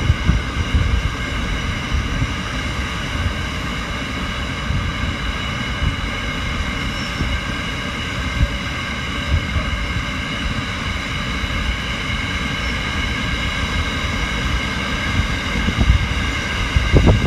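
Long iron ore train of empty ore wagons rolling past, a steady low rumble with a steady high-pitched whine over it. Near the end, gusts of wind start buffeting the microphone as a yellow Aurizon diesel locomotive in the train draws near.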